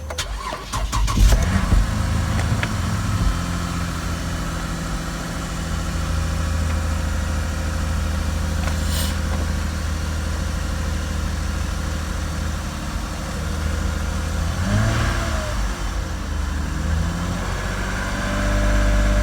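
Toyota Crown 3.5 Athlete's (GRS204) 3.5-litre V6 starting up: it catches and flares in revs about a second in, then settles into a steady idle.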